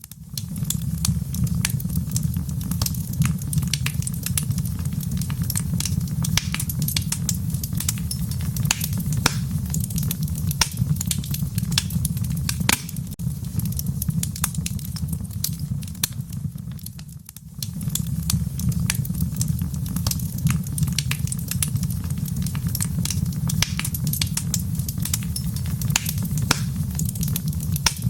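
Wood fire crackling in a fireplace, with frequent sharp pops and snaps over a steady low rumble of the flames. The sound briefly dips away about two-thirds of the way through, then resumes.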